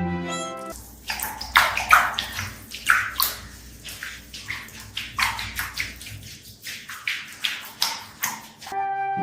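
Water splashing and sloshing in irregular surges for several seconds, over a low rumble. Background music plays briefly at the start and again near the end.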